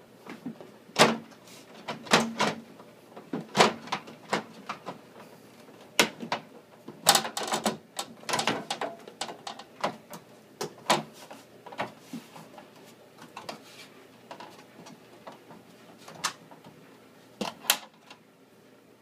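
The plastic door panel of a Whirlpool Gold microwave being worked and snapped back into place on the door: a string of sharp plastic clicks, snaps and knocks, with a quick run of clicks about seven to eight seconds in.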